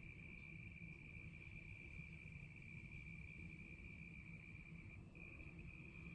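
Insects chirring in a steady high pitch with a brief break near the end, over a faint low outdoor rumble.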